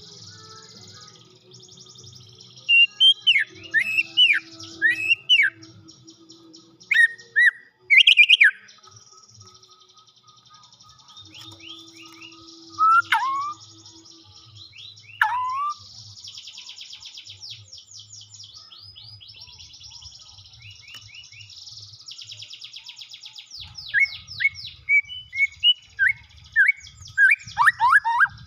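White-rumped shama (murai batu) singing: loud, clear whistled phrases of quickly sliding notes in clusters, over a near-continuous rapid, high chattering trill. The bird is a caged shama being brought into breeding drive.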